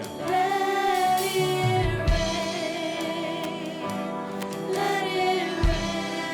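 Church worship band with singers performing a worship song: long held sung notes with vibrato over the band, with two deep low hits, about two seconds in and again near the end.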